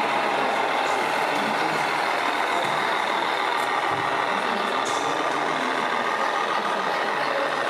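Scale RC truck's sound module playing a steady truck engine sound.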